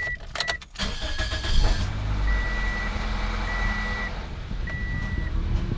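Toyota Corolla's 1.8-litre four-cylinder engine cranking and catching about a second in, then settling into a steady idle on its first start after an oil and filter change. A car warning chime beeps twice at the start and then keeps beeping steadily about once a second.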